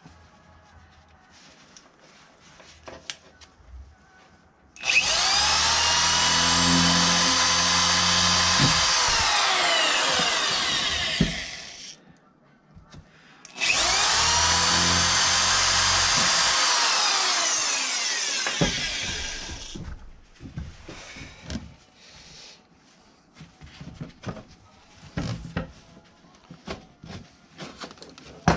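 A handheld power tool is run twice for about six seconds each time. Each time its motor whines up to speed within about a second, holds steady, then winds down as it is let go. Scattered clicks and knocks of handling follow in the second half.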